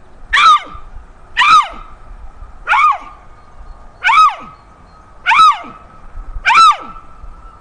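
Cheetah chirping: six short, high, bird-like calls, each rising then falling in pitch, repeated about once every second and a quarter.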